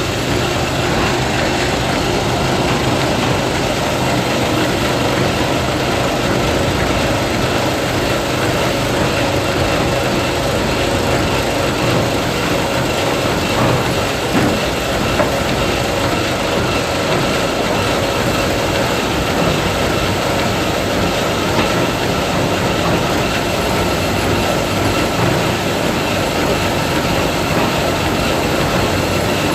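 Combine harvester running steadily: a loud, even mechanical noise with a faint constant hum underneath.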